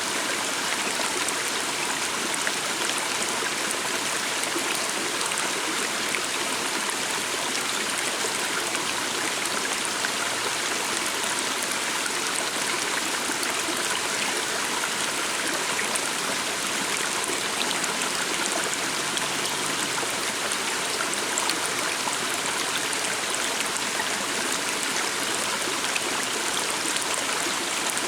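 A stream of water running steadily over rocks, a continuous even rush.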